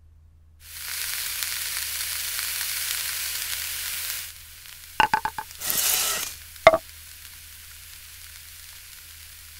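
Frying sizzle on a hot griddle, loud and even for about three and a half seconds, then dropping to a fainter steady sizzle. Partway through come a quick run of sharp clicks, a short burst of sizzle and one more click.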